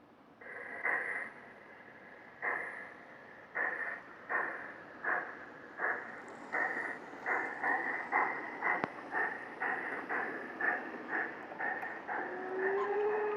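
G-scale model steam locomotive's sound module chuffing, the puffs starting slow and quickening as the locomotive gets under way. A steady tone joins near the end.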